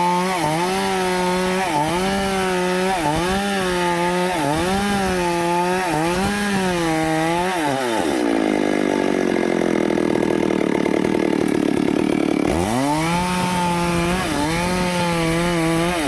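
Stihl two-stroke chainsaw cutting teak wood. The engine's pitch dips briefly about once a second. About eight seconds in, the engine labours at a much lower speed for about four seconds, then picks back up.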